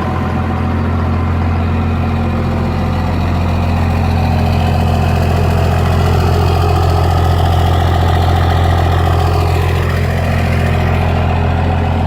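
1998.5 Dodge Ram 3500's 24-valve 5.9 L Cummins inline-six turbo diesel idling through a newly fitted 5-inch Diamond Eye exhaust: a deep, steady drone. A faint whine rises and falls in the middle.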